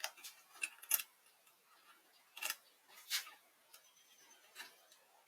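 A series of about eight light, irregular clicks and taps, with a quick cluster in the first second and the loudest just before a second in, like small hard parts or hand tools being handled.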